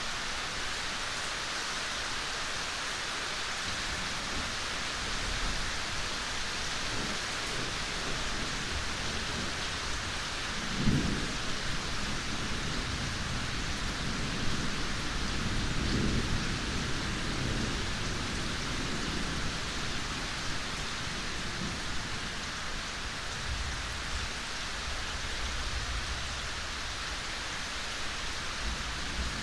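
Steady rain falling in a forest, an even hiss. Low rumbles come in about a third of the way through and again for several seconds in the middle.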